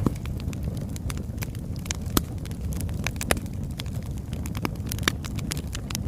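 Oak logs burning in a fireplace: a steady low rumble of the flames with irregular crackles and a few louder pops.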